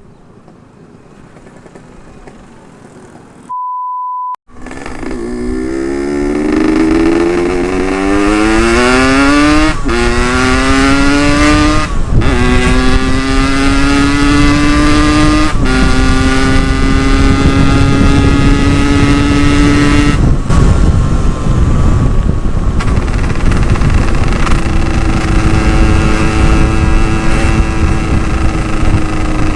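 Yamaha RX-King 135 two-stroke single-cylinder engine accelerating hard through the gears. The pitch climbs and drops at each upshift, three times in quick succession, then holds steady at high speed over wind noise. Before the engine comes in, a short steady electronic beep sounds about four seconds in.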